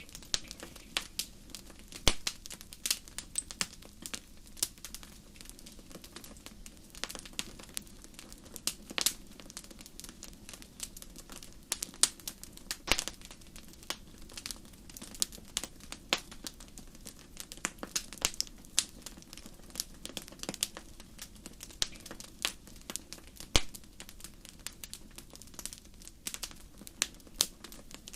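Wood fire in a fireplace crackling: irregular sharp pops and snaps, a few of them louder, over a steady low hiss of the flames.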